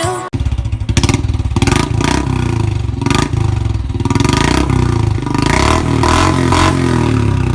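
Royal Enfield Standard 350's single-cylinder engine running through an aftermarket exhaust, the throttle blipped repeatedly. It starts about a third of a second in.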